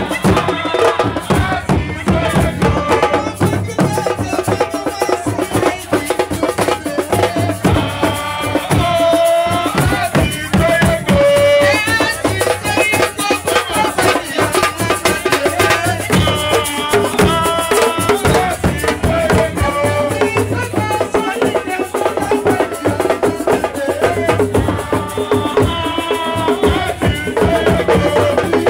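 Voices singing over a steady beat of rattles and drums.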